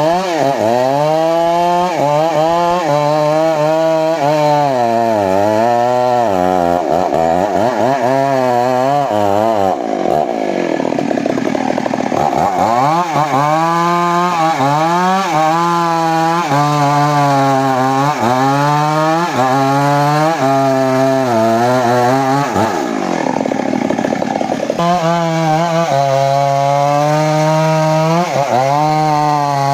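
Two-stroke chainsaw cutting teak wood, its engine pitch repeatedly dropping as the chain loads in the cut and rising again as it frees up.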